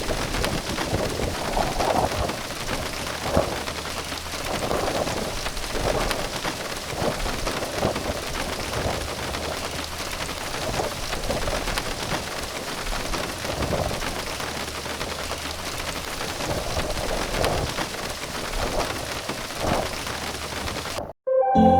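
Waterfall: a steady, dense rush of falling water with a low rumble underneath, which cuts off abruptly about 21 seconds in.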